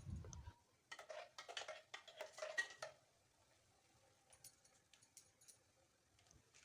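Utensil scraping and clinking in a kadai while masala paste is stirred and fried: a soft thump at the start, then about two seconds of quick scrapes and clicks, fading to a few faint ticks.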